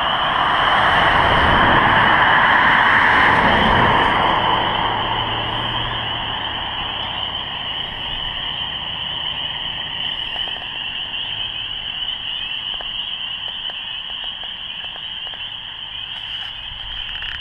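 Spring frog chorus from the lakeshore: steady, dense high-pitched calling. Over the first six seconds a vehicle passes on the road, a rush of noise that swells, is loudest two to four seconds in, then fades.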